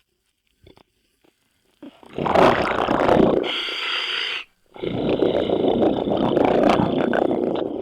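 Scuba diver's exhaled bubbles rumbling past an underwater microphone: two long bursts with a short pause between them.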